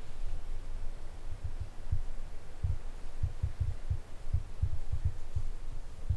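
Wind buffeting the microphone: a run of irregular low thumps, thicker after the first couple of seconds.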